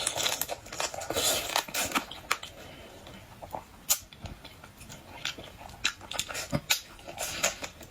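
Close-miked eating of cooked swimming crab: irregular crunching and cracking of shell, with wet chewing between sharp clicks.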